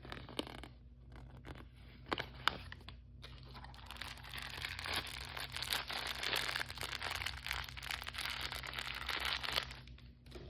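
Plastic packaging handled and torn open by hand: a few sharp crackles, then about six seconds of continuous crinkling that stops near the end.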